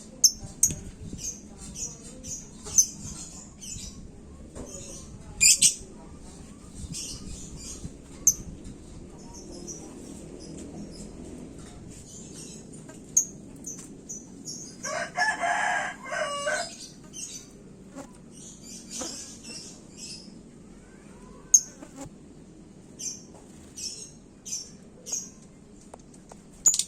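Lovebird in a hanging cage chirping in many short, very high-pitched bursts. About fifteen seconds in, a rooster crows once, louder and lower-pitched than the chirps.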